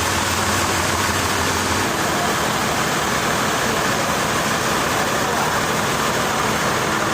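Steady noise of running sawmill machinery, with a low engine hum that drops away about two seconds in.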